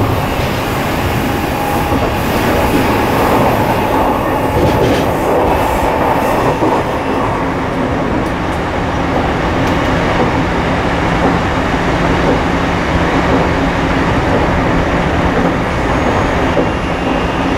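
Inside an Odakyu 5000 series electric train running at speed: wheels rolling on the rails with a steady hum from the drive, heard from within the passenger car.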